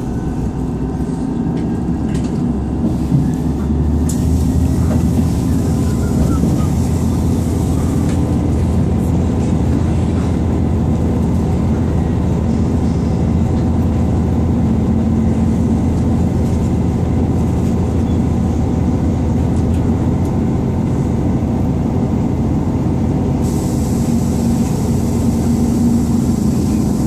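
Inside a Class 158 diesel multiple unit under way: a steady low drone of the underfloor diesel engine and the rumble of wheels on the rails.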